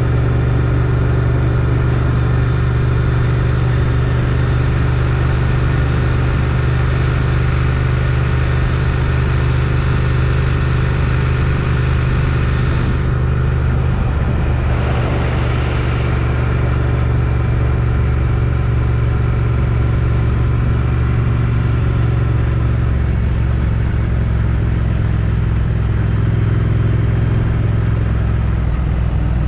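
Triumph Street Twin's 900 cc parallel-twin engine running through its stock exhaust at a steady road speed, with wind and road noise at a helmet chin mount. The engine note shifts slightly about two-thirds of the way through.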